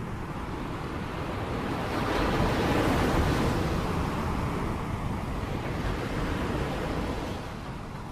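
Rain with wind: a steady wash of downpour noise that swells in a gust about two seconds in and eases off near the end.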